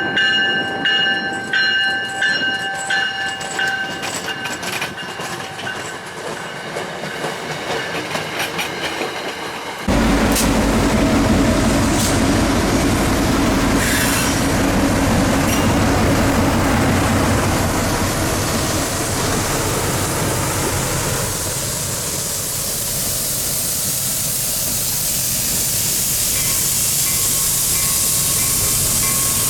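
Long Island Rail Road work train on the rails. For the first ten seconds the wheels squeal in high, wavering tones. Then the sound switches abruptly to a louder low rumble with clattering wheels, and a hiss rises over the second half.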